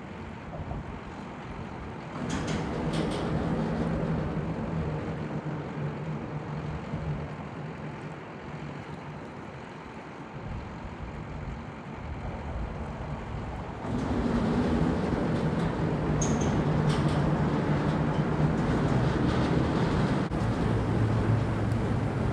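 Steady low drone of heavy machinery running, with a few fixed low tones, growing sharply louder about two-thirds of the way through.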